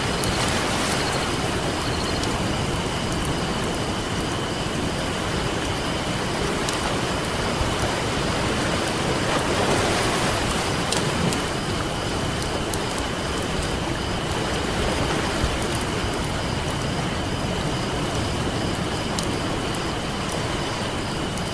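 Campfire crackling with scattered sharp pops over the steady wash of ocean surf, which swells briefly about halfway through.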